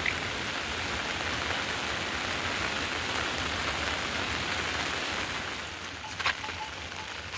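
Rain falling steadily, with a couple of sharp taps about six seconds in.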